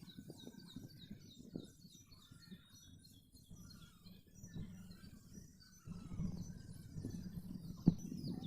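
Many small birds chirping in quick, short, high notes. A low rumble joins about six seconds in, with a single knock near the end.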